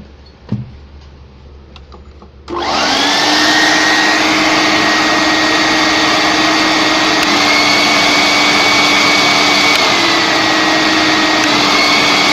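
Two-speed vacuum cleaner motor starting up with a rising whine about two and a half seconds in, after a short click, then running loudly. Its whine steps up, back down, and up again as it is switched between high and low speed, the low speed coming from a diode that cuts the 220 V supply to about 110 V.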